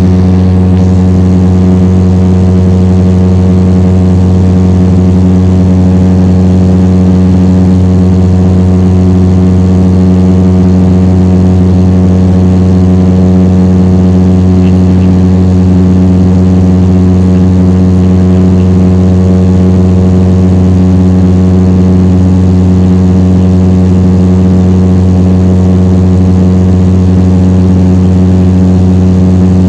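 Steady, loud drone of the Airbus A400M Atlas's four TP400 turboprop engines and eight-blade propellers: a deep, even hum with a stack of higher tones that holds unchanged throughout.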